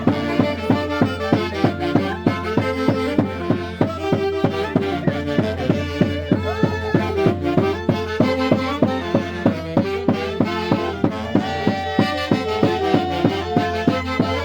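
Santiago dance music from Peru's Mantaro Valley, played by a band over a fast, steady beat.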